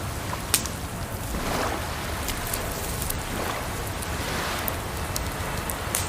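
Wood fire crackling, with sharp single pops every second or so, over a steady rush of water and soft swells of water lapping every couple of seconds.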